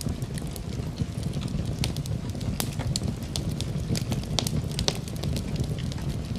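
Fire burning in a fireplace, crackling and popping at irregular moments several times a second over a low, steady rumble of the flames.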